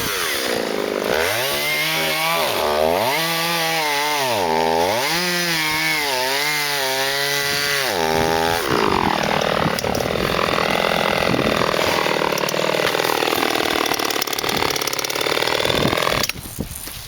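Chainsaw cutting wood. The engine pitch drops and recovers several times, then holds high with a rougher sawing sound, and it stops suddenly near the end.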